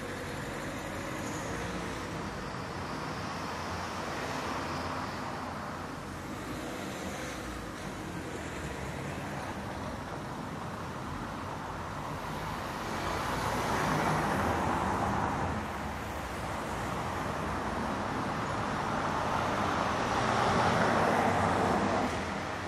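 City street traffic ambience: a steady wash of car and engine noise, with vehicles passing close by about halfway through and again near the end.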